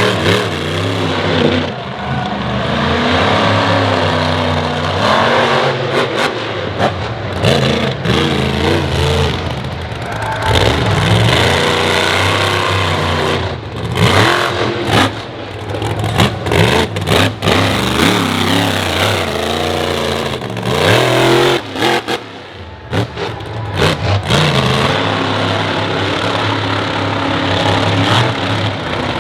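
Monster truck engine revving hard, its pitch climbing and falling again and again with the throttle, with a few short lifts off the throttle.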